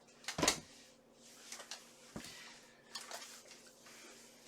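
Steel leg armour plates clacking and shifting as the wearer moves: a sharp metallic knock about half a second in, a low thump near two seconds, then lighter rustling clicks.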